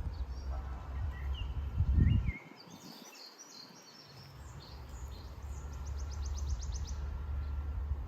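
Small birds chirping, ending in a fast trill of about ten quick notes, over a low rumble that peaks in a loud thump about two seconds in and then briefly drops away.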